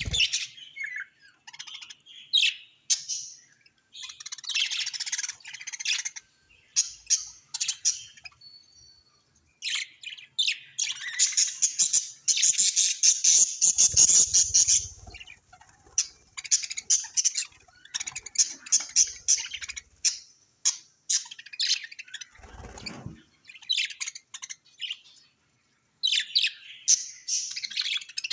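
Birds chirping and squawking in rapid, dense runs of high calls, broken by a few brief silent gaps.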